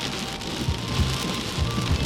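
Heavy rainstorm: rain pouring down steadily, with frequent irregular low thuds.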